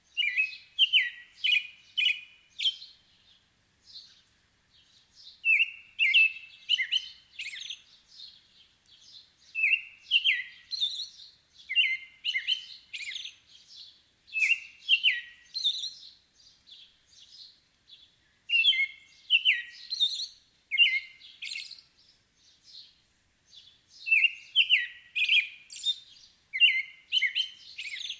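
Songbirds singing: phrases of quick, repeated chirping notes, each phrase lasting a second or two, with short pauses between them.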